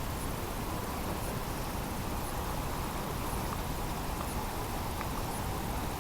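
Steady outdoor background noise, an even hiss with no distinct event, and a few faint high ticks.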